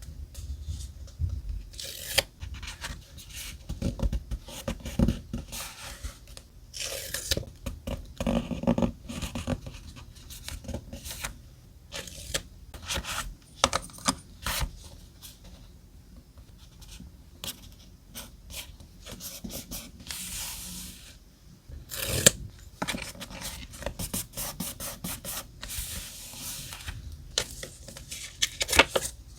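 Close-up paper sounds: paper being rubbed, scraped and torn, with irregular rustles and small taps. One sharper tap comes about two-thirds of the way through.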